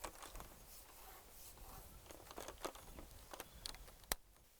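Faint, irregular rustling and small clicks, with one sharp click about four seconds in.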